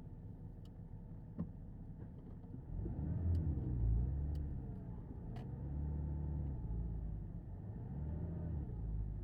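Porsche Boxster S 987.2's 3.4-litre flat-six running low and steady, with a sharp click about a second and a half in, then from about three seconds in the revs rising and falling three times as the car is driven.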